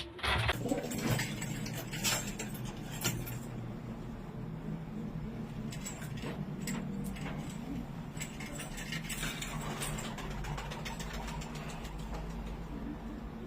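Domestic pigeons cooing over a steady low hum, with a few sharp clicks in the first three seconds.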